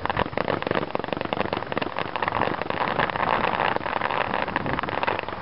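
Fireworks crackling: a dense, continuous patter of many small sharp pops.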